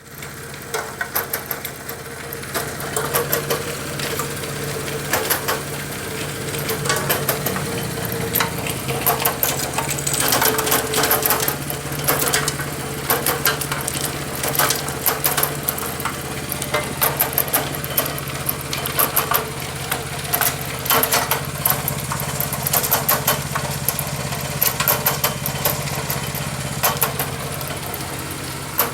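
Motor-driven brick-clay mixing machine running steadily: a constant low hum with frequent, irregular sharp knocks and clatter.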